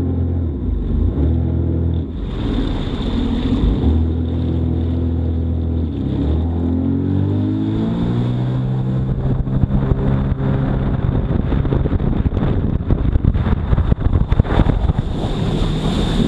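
Jet ski engine running under way, its pitch rising and falling with the throttle. From about halfway through it is joined by choppy splashing and wind noise on the microphone.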